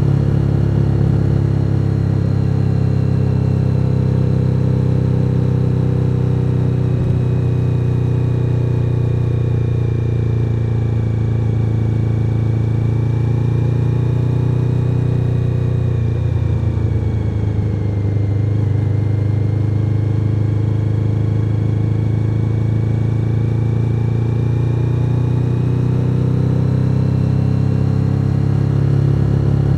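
Suzuki SV1000N's 90-degree V-twin engine running steadily while riding on the road, its pitch dropping and shifting about halfway through before it settles into a steady run again.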